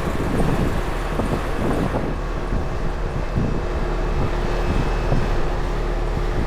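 Outdoor air-conditioning condensing unit with a scroll compressor running steadily after its repair, a constant low hum with a steady tone coming in about two and a half seconds in, running nice and quiet. Wind buffets the microphone, mostly in the first two seconds.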